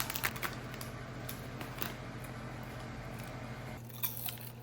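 Scattered light clicks and rustles of the food and its container being handled, over a steady low hum.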